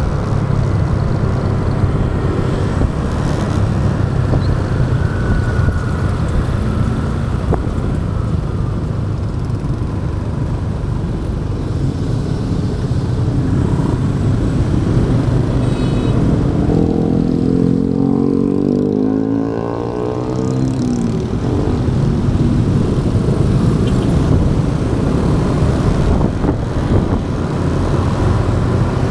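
Motorcycle riding on a city road: steady engine and road rumble with wind noise. Between roughly two-thirds and three-quarters of the way through, an engine note sweeps in pitch for a few seconds.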